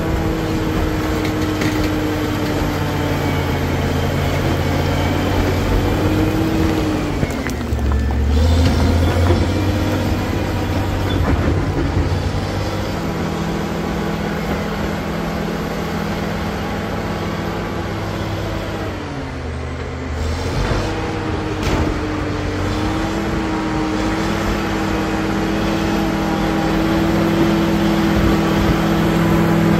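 Caterpillar D7G bulldozer's diesel engine working under load. Its pitch drops twice, about eight seconds in and again around twenty seconds, as the engine lugs down, and each time it climbs back.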